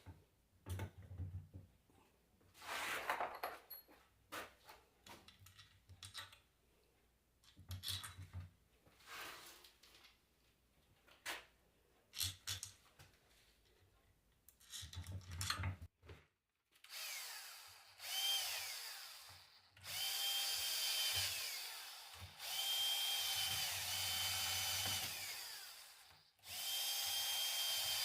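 Clicks and knocks of metal parts and tools being handled, then a drill-like power tool run in about five bursts of one to four seconds, each spinning up to a steady whine and winding down.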